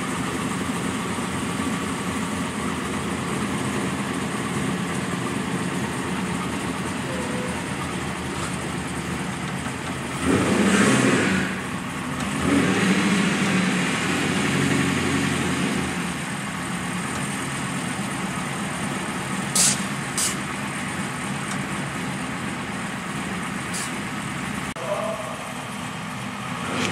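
Camaro's cammed LS1 V8 idling steadily, with two louder throttle surges about ten to fifteen seconds in as the car is driven down off its trailer. A couple of sharp clicks come about twenty seconds in.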